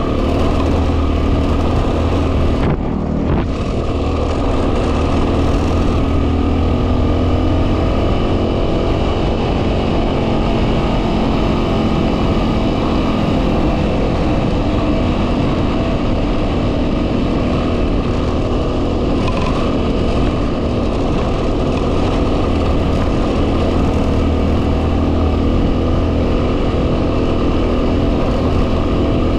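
2010 Yamaha WR250R's single-cylinder four-stroke engine running steadily under way, with heavy wind noise buffeting the microphone. The engine note dips briefly about three seconds in.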